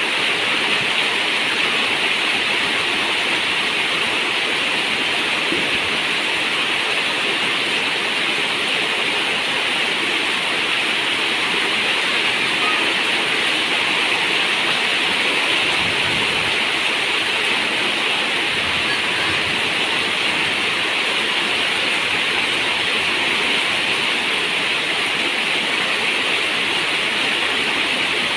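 Steady rain falling on a zinc roof: an unbroken, even patter of dense drops with no let-up.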